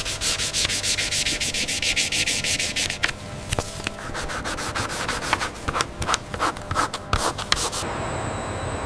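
Rubbing strokes, like hand sanding or scrubbing a surface. The strokes come quick and regular for about three seconds, then turn slower and irregular, and a steady hiss takes over near the end.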